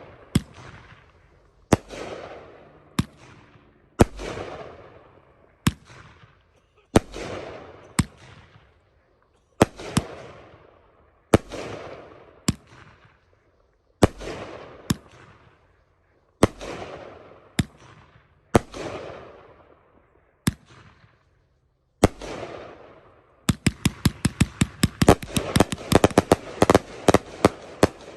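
Colour willow firework cake firing shot by shot: each shot is a sharp bang followed by a fading rush, repeating about every second and a half. About 23 seconds in it breaks into a rapid volley of many quick shots for the finale.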